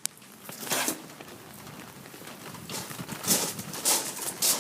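Footsteps on wet ground, a step every half second or so in the second half, over a steady hiss of rain.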